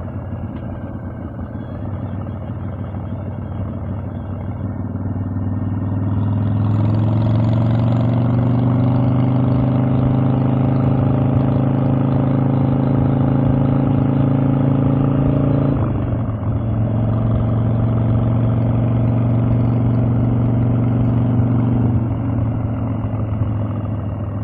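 Harley-Davidson Evolution air-cooled V-twin running on the road, picking up and getting louder about six seconds in as the throttle opens. It holds a steady note, drops out briefly around sixteen seconds, then pulls steadily again before easing off near the end.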